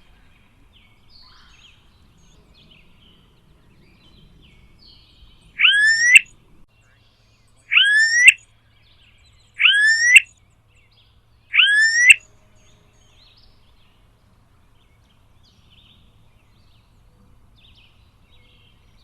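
Smooth-billed ani giving four loud calls about two seconds apart, each a single note rising in pitch and lasting about half a second. Fainter bird chirps come and go around them.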